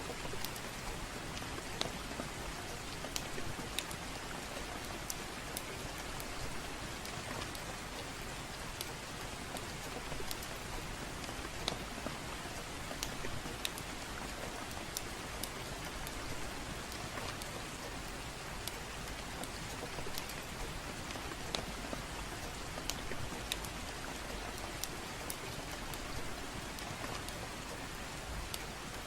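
Steady gentle rain with irregular sharp crackles and pops from a wood fire scattered over it.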